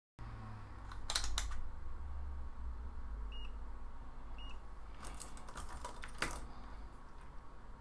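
Light clicks and taps of small parts being handled on a phone-repair bench, in a cluster about a second in and another from about five to six seconds in, over a low steady hum. Two faint short high beeps come in between.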